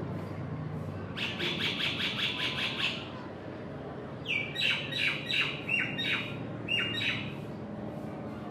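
A bird calling: first a fast chattering run of about ten short notes, then a string of short squawks that each fall in pitch.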